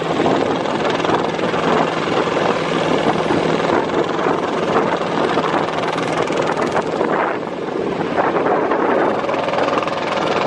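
Engine of a klotok, a small wooden motorboat, running steadily with a fast, even chugging. There is a brief dip in level about seven and a half seconds in.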